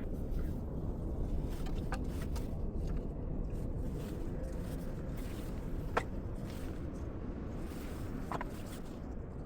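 Blizzard wind on the microphone: a steady low rumble, with a few sharp clicks or crackles, the loudest about six seconds in.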